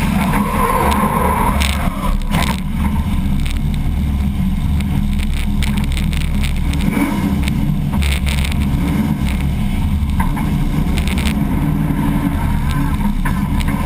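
Nissan S13 drift car's engine idling with a lumpy low rumble, picked up by a camera mounted on the car, with a few sharp knocks.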